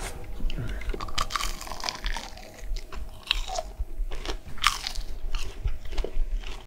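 A person chewing close to the microphone, biting into and crunching a McDonald's burger and crispy breaded nuggets, with irregular crunches.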